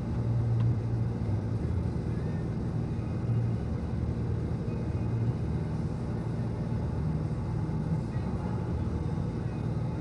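A steady low engine rumble with a wavering hum, running evenly throughout.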